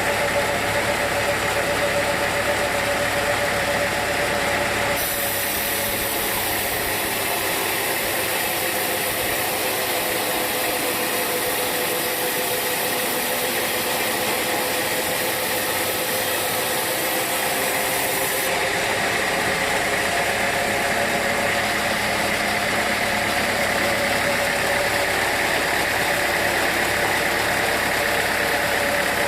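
Sawmill machinery running steadily, a continuous mechanical hum with a steady whine. From about five seconds in to about eighteen seconds a high hiss joins it and the deep rumble fades.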